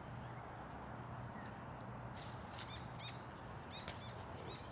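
A small bird chirping: several short, arched chirps in the second half, over a steady low background rumble outdoors.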